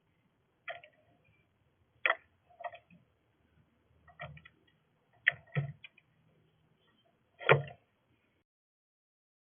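Irregular sharp taps and knocks at a bird feeder, about eight spread unevenly over nine seconds, the loudest near the end.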